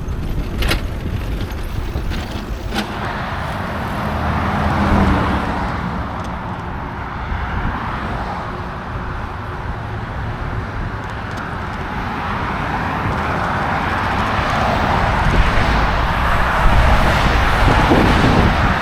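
Street traffic with a steady low rumble, swelling louder near the end as vehicles draw close, heard from a moving bicycle; a couple of brief clicks in the first few seconds.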